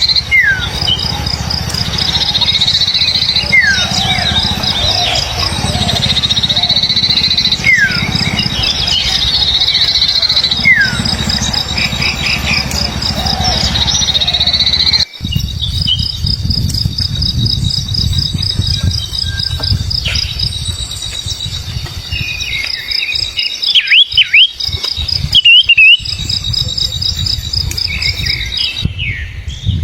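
Steady high-pitched insect trill with short, downward-sweeping bird whistles and chirps over it, and a low rumbling noise underneath. The sound changes abruptly about halfway through, and a few louder chirps come near the end.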